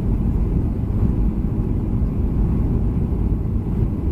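Steady low rumble of a Boeing 737-300 with its CFM56 turbofan engines, heard from inside the passenger cabin.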